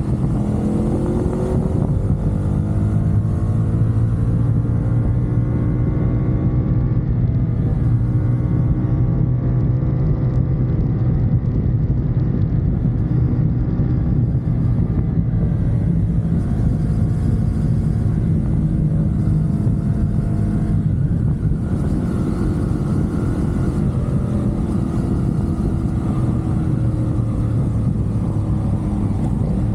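CFMoto 450SR's parallel-twin engine running at expressway speed, rising in pitch over the first couple of seconds and then holding steady.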